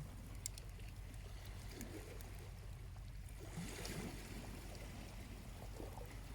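Small waves lapping on a beach, one washing in about three and a half seconds in, over a low steady rumble, with a few faint crackles from a charcoal campfire early on.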